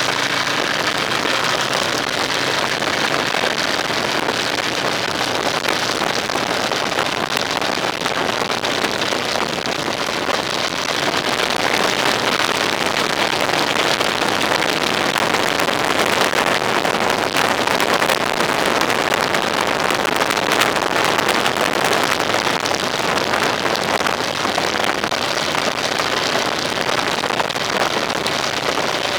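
Steady wind and road noise on a moving vehicle's camera, a loud even rush with no distinct engine note.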